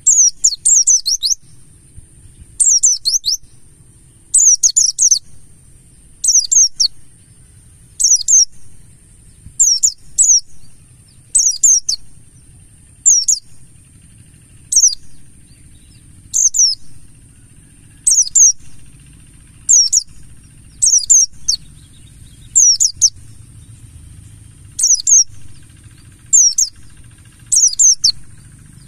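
Pleci buxtoni white-eye singing: short, high-pitched twittering phrases repeated about every second and a half, over a faint steady high hiss.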